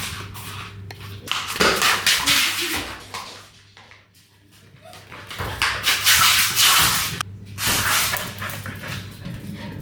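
Border collie and a young child playing chase: the dog's sounds, scrambling, and the child's voice come in irregular bursts, dropping off briefly about four seconds in.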